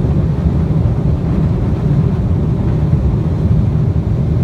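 A van driving, heard from inside the cabin: a steady low rumble of engine and road noise.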